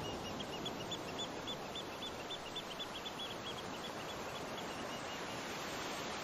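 A bird chirping in a fast string of short high notes, about three a second, fading out a little over halfway through, over a steady rushing noise.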